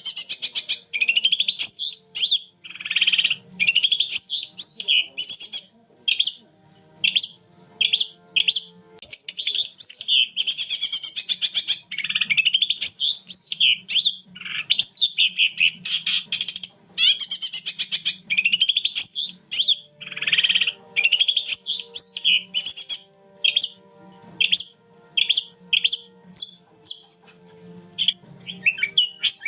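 Long-tailed shrike (cendet) in full song: a loud, fast, almost unbroken stream of chirps, trills and quick rising and falling whistles, broken only by brief pauses.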